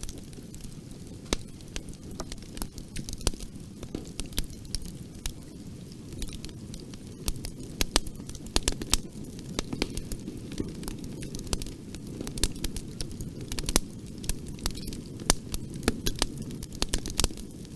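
Wood fire crackling and popping in a fireplace: irregular sharp pops over a steady low rumble of flames, the pops coming thicker in the second half.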